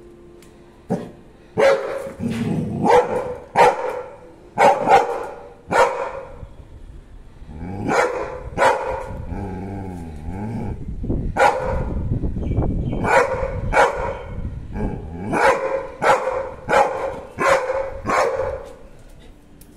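Labrador retriever barking repeatedly in sharp, loud barks at a grasshopper, with a low growl between the barks in the middle.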